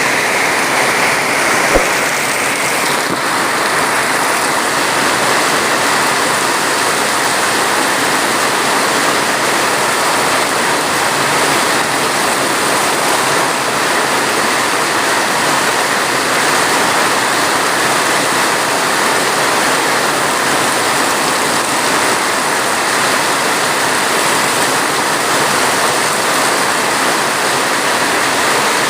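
Steady heavy rain, a dense, even hiss with no letup. A single brief low knock sounds about two seconds in.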